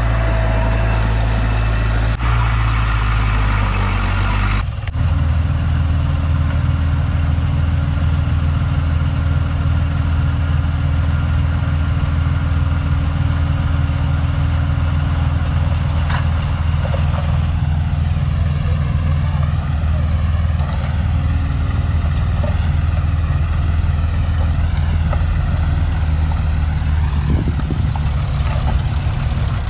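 Heavy diesel engine of earthmoving machinery running steadily. Its sound changes abruptly about five seconds in, then carries on evenly.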